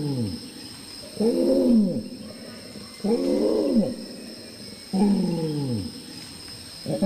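Adult male Sumatran orangutan's long call: a series of deep, pitched calls, each rising then falling in pitch over about a second, coming about every two seconds. The long call proclaims the male's territory.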